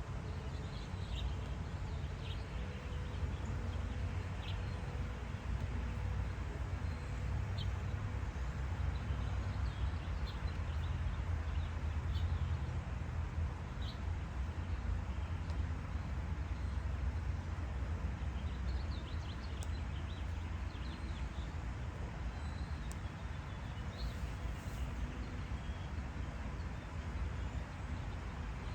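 Garden birds chirping in short, scattered calls over a steady low rumble.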